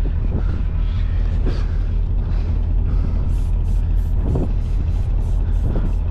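Heavy diesel truck engine idling steadily with a low, even rumble. From about halfway through, a quick regular run of light clicks sounds over it, about three a second.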